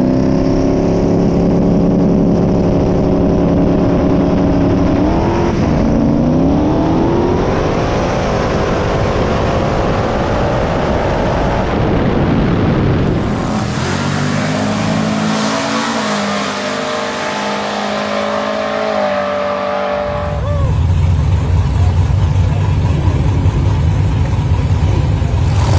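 Drag car engine at full throttle down the strip, its pitch climbing and dipping briefly at gear changes about five and eight seconds in. Near the end comes a lower, steady engine rumble.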